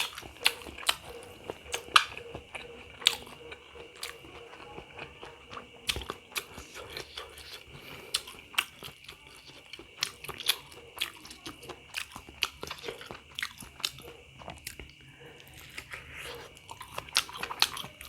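Close-up chewing and biting of pentol bakso (beef meatballs): irregular sharp mouth clicks and smacks, one or two a second.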